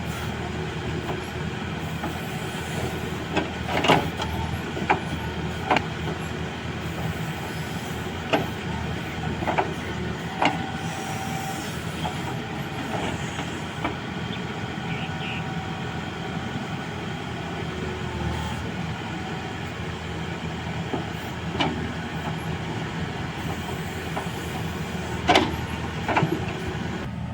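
Diesel engine of heavy earthmoving machinery running steadily, with a handful of sharp knocks and clanks scattered through.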